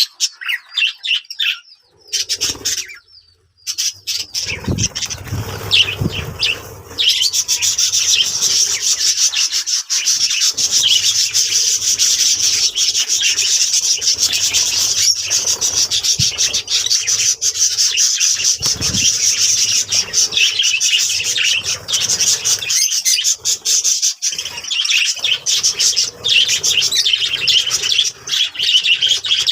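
Budgerigars chattering and warbling: after a brief lull with a few low thuds, a dense, continuous high twittering with many scratchy clicks sets in about a quarter of the way through and carries on.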